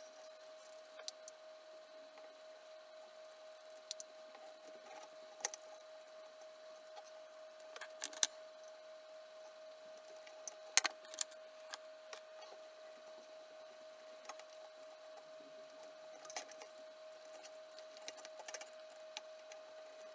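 Scattered light clicks and small rattles of parts and tools being handled, over a steady faint high hum.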